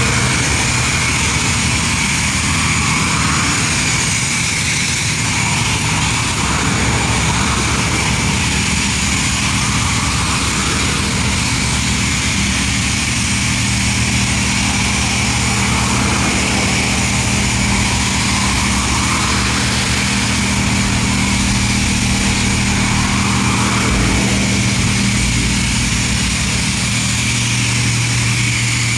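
Steady motor drone with a constant high whine over a loud hiss, unchanging in level throughout.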